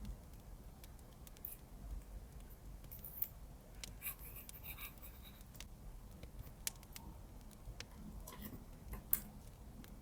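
Scissors cutting paper, with a quick run of snips about four seconds in and scattered small clicks and handling sounds.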